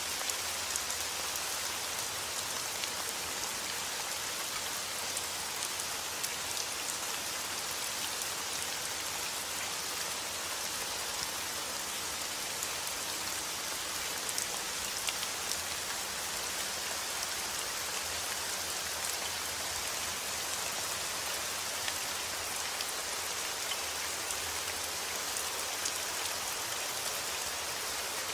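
Heavy rain falling steadily outdoors, a constant hiss dotted with many small drop ticks.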